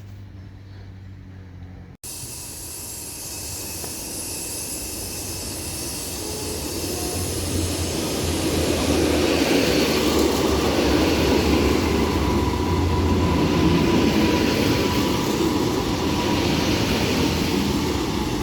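Passenger train approaching and running by, its rumble and wheel-on-rail noise building over several seconds, then staying loud and steady with a faint whine. The sound starts after a sudden cut about two seconds in.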